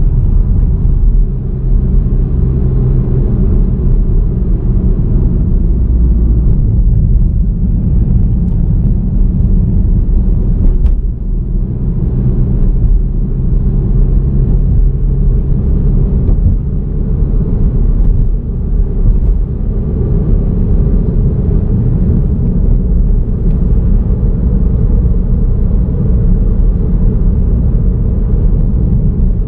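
Car driving along a road, heard as a steady low rumble of engine and tyre noise through an onboard camera.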